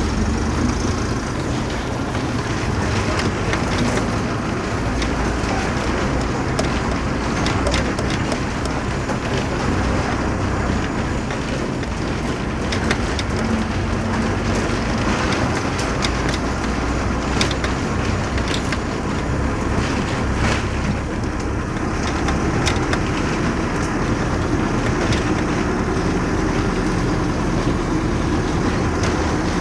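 Vehicle engine running steadily under road and traffic noise, with scattered light clicks and rattles.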